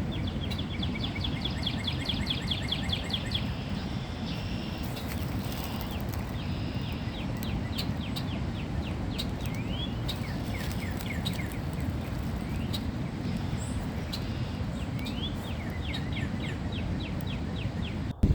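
Songbirds singing in spring: repeated fast series of short high chirping notes and down-slurred whistles, several birds overlapping, over a steady low background rumble.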